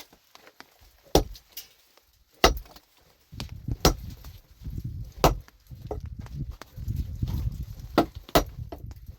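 About six sharp, heavy blows of a hand tool striking something hard, roughly every second and a half, with the last two close together. A low rumbling noise runs between the blows from about a third of the way in.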